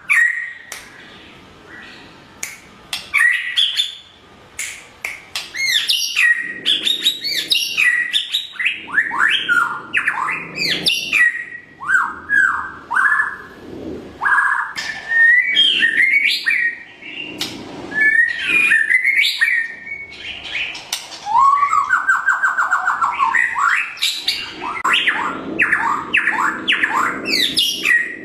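White-rumped shama in full song: a rapid, varied run of whistles, rising and falling slurs, buzzy trills and sharp clicks. It starts sparse and quieter, then turns dense and loud after about five seconds.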